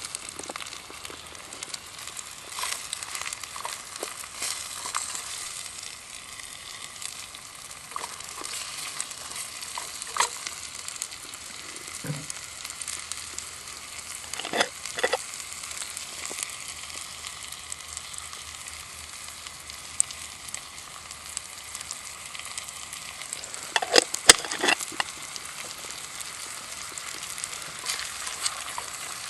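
Food frying in a pan, a steady sizzle with scattered sharp clicks and a few louder knocks, most of them a little before the end.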